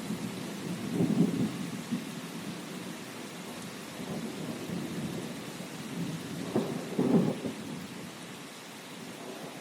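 Steady rain with thunder rumbling low beneath it, swelling about a second in and again, more strongly, around seven seconds.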